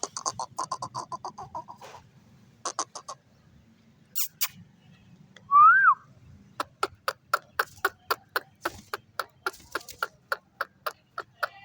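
Parrot giving rapid runs of short, clipped calls, with one loud whistle that rises and falls about halfway through, then a long even run of short calls at about five a second.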